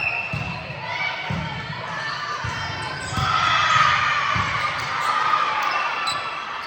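Indoor court game: a ball thudding on the hardwood floor and players' sneakers squeaking as they move, with voices calling in a large echoing hall.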